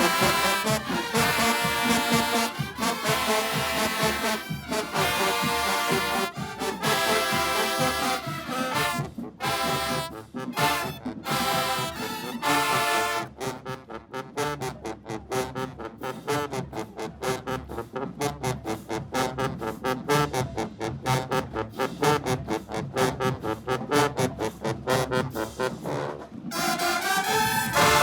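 Marching band brass playing: held chords at first, then a long run of short, rapid, punched notes in the middle, returning to held chords near the end.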